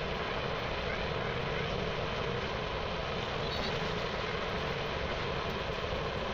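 A steady mechanical rumble and hiss, holding level throughout.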